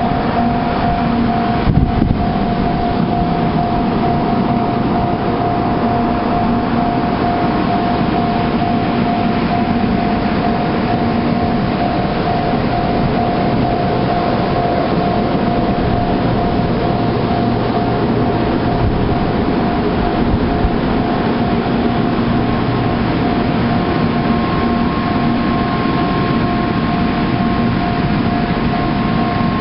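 N700 series Shinkansen train running slowly over a level crossing: a steady, loud rumble with a constant hum held throughout.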